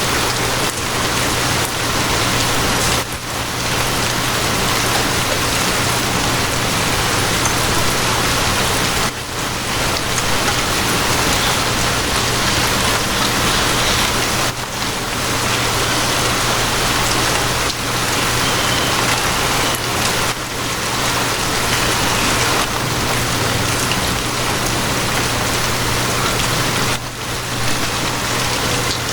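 Steady, heavy rainfall, an even rushing hiss of rain on surfaces with brief lulls every five or six seconds. A steady low hum runs underneath.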